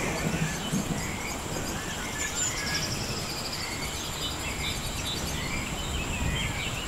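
Natural outdoor ambience: a steady hiss with birds chirping on and off over a continuous high insect buzz.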